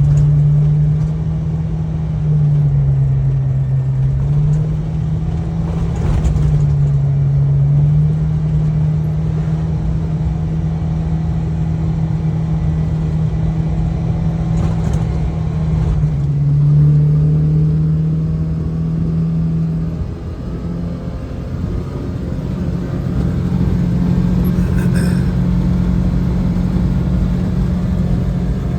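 Kawasaki six-seater side-by-side (UTV) engine running under way, heard from inside its enclosed cab. A steady drone shifts in pitch several times, over a constant rumble of the drive.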